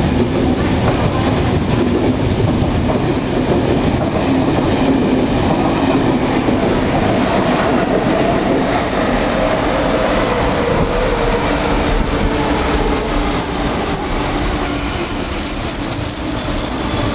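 KTT double-deck intercity train running through the station at speed: a steady rumble and clatter of wheels on track as the coaches and then the electric power car go by. About eleven seconds in, a high metal-on-metal wheel squeal sets in and holds.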